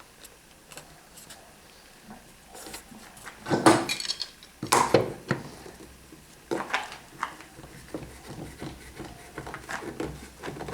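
Wooden and metal jig parts being handled and set down on a bench: a run of irregular knocks and clinks, loudest about four to five seconds in.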